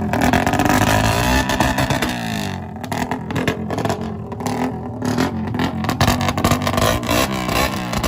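Suzuki Satria FU fuel-injected motorcycle's 150 cc single-cylinder engine revving through its exhaust: held at high revs at first, falling off about two seconds in, then blipped up and down repeatedly toward the end.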